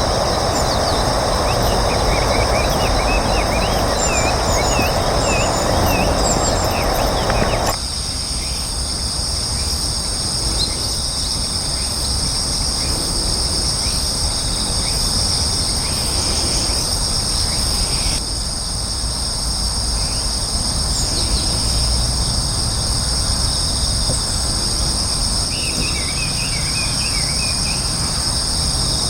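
Steady high-pitched insect drone throughout, with short chirps from small birds in the first few seconds and again near the end. A rushing background noise fills the first several seconds and cuts off abruptly.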